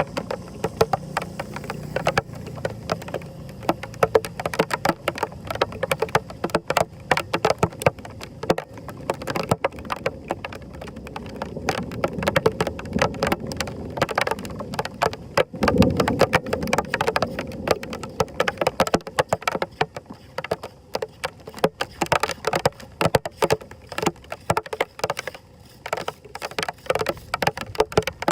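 Heavy rain with a dense patter of close drops and splashing water, swelling louder and deeper for a couple of seconds midway through.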